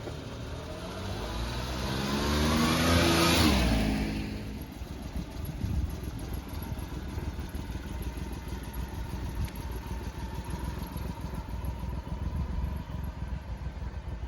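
A motor vehicle drives past, its engine note rising and then dropping in pitch as it goes by, loudest about three seconds in and fading by four seconds. After that comes a steady low engine rumble of idling.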